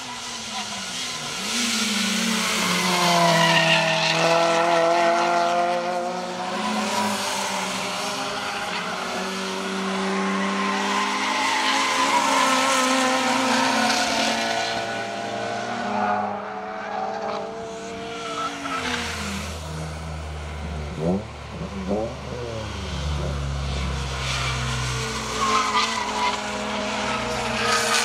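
Honda Civic EP3 Type R's 2.0-litre four-cylinder VTEC engine revving hard on track, its pitch climbing through the gears and falling away when lifting for corners. A deeper rumble joins for a few seconds just past the middle.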